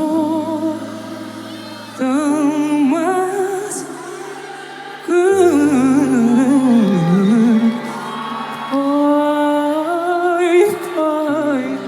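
A singer holds high sustained notes with vibrato and adds quick melodic runs, over held low chords from a piano or keyboard that change every few seconds.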